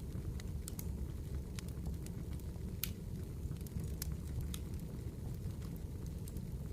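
Campfire burning: a steady low rush of flames with sharp wood crackles and pops scattered throughout, one louder pop about three seconds in.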